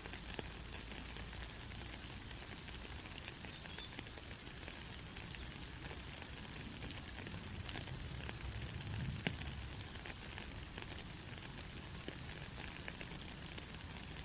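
Steady hiss of a white-noise track for lulling a baby to sleep, crackly and rain-like, with scattered faint clicks and a few brief high peeps.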